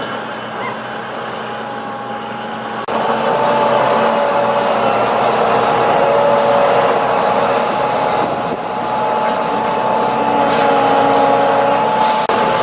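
Heavy diesel machinery running steadily, with a high steady whine over the engine noise. The sound jumps louder about three seconds in.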